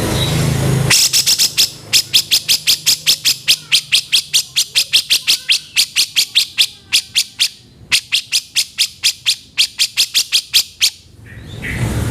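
Grey-cheeked bulbul (cucak jenggot) giving a long, rapid run of harsh, sharp chattering notes, about five a second, with a brief break about eight seconds in. The first second is a hiss with a low hum before the calls begin.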